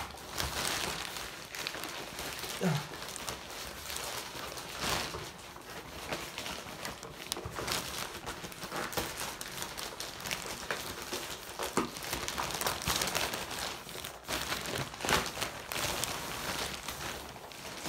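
Toy packaging being handled: steady crinkling and rustling with scattered small clicks and knocks.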